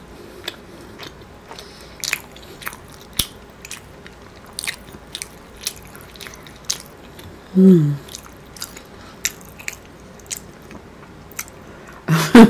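A person chewing food close to the microphone with the mouth closed: many scattered wet mouth clicks and smacks. A little under two-thirds of the way in comes a short hum that falls in pitch.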